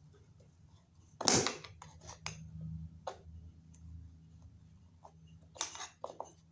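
Clicks and knocks of hand tools and hardware while an outlet box is taken off a wall, with one loud sudden clatter about a second in and a shorter one near the end.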